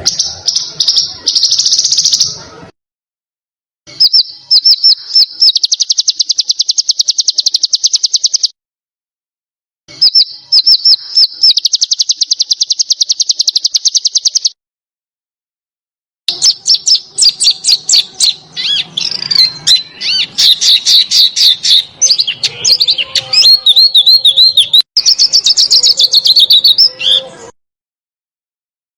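Small songbird singing in high-pitched phrases of very rapid repeated notes, fast chattering trills, cut by about four short silences. The longest phrase comes in the second half and is more varied, with sweeping, warbling notes.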